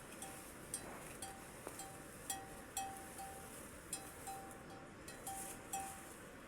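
Steady rain, with a run of short pings all at one pitch, about two a second, and sharp ticks over it.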